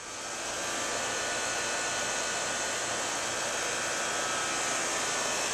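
Rheem 5-ton 13AJM60A01 split-system condenser starting up: its scroll compressor and 1/5 hp, 850 RPM condenser fan come on, building up over about half a second, then running steadily with an even rush of fan air and a faint hum. Nice and quiet.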